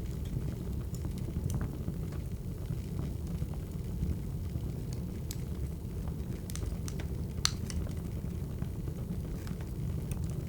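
Wood fire burning: a steady low rumble with scattered sharp crackles and pops, the loudest about seven and a half seconds in.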